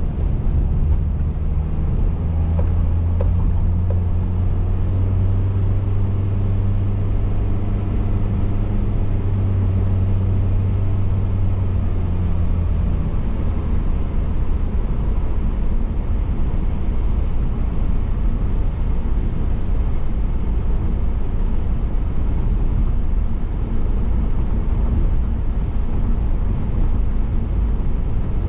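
Car driving, heard from inside the cabin: steady road and tyre rumble, with a low engine drone that fades out about thirteen seconds in.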